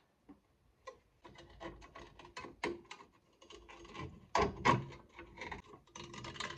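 Metal clicking and scraping of a 2009 Ford Ranger rear drum brake's shoe hold-down spring cap being pressed in and twisted on its pin to release it. Irregular small ticks, with two louder clacks a little past halfway.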